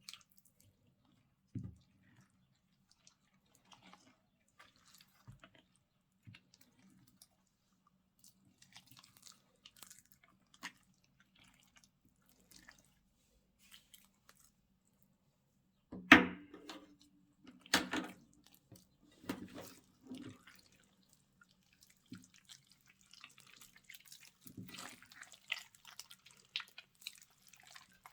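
Slime being mixed by hand: scattered wet, sticky clicks and squelches. There are two louder squelches about 16 and 18 seconds in, and denser crackling near the end.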